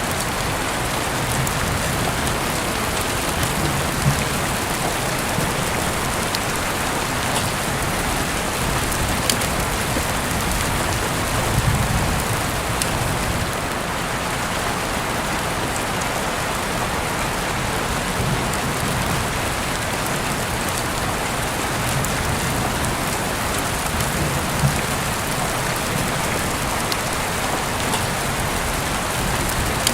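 Steady rain falling, an even dense hiss of drops on a surface, with a few isolated sharp pops and soft low rumbles in the background.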